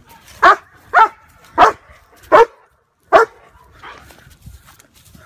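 A dog barking five times in quick succession, with gaps of about half a second to three quarters of a second, then falling quiet.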